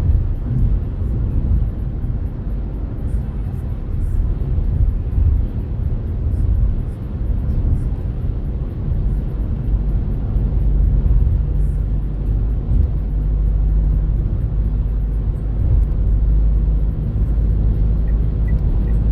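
Renault Kardian driving on the road: a steady low rumble of tyre, road and engine noise.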